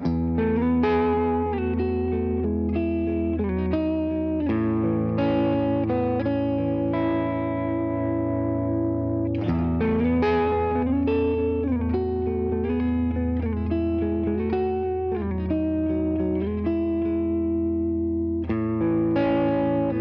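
Electric guitar played through a Hologram Chroma Console multi-effects pedal: sustained, layered chords over a held low note, with single notes picked on top. The chords change about every five seconds.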